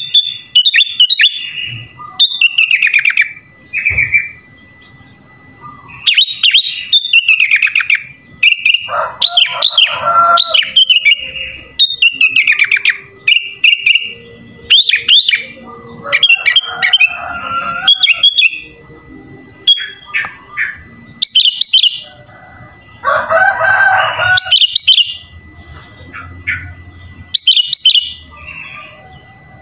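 Sooty-headed bulbul (kutilang) in full song: loud bursts of quick chirping, warbling phrases every second or two with short pauses between, the song filled out with 'isian', phrases copied from other birds' songs.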